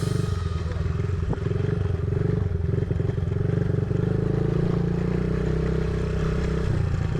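Small Honda CRF50 dirt bike's single-cylinder four-stroke engine running steadily at low revs, with a slight change in tone about four seconds in.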